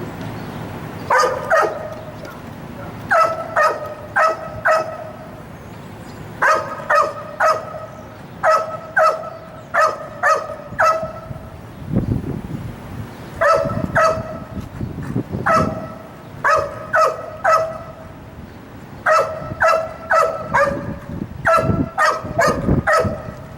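A dog barking again and again in quick runs of two to five sharp barks, with short pauses between the runs.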